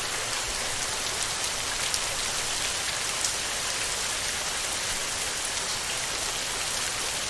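Heavy rain falling steadily on a tin roof: an even hiss with scattered sharp drop ticks.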